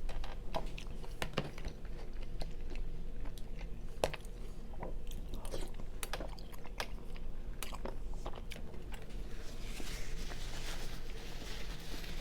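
Chewing a mouthful of white chicken chili, with many small wet mouth clicks at irregular intervals.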